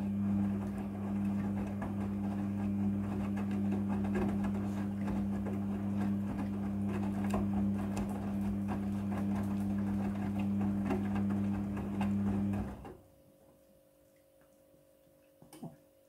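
A small machine running with a steady hum and a fast clatter of clicks, stopping abruptly about thirteen seconds in. A few faint ticks follow near the end.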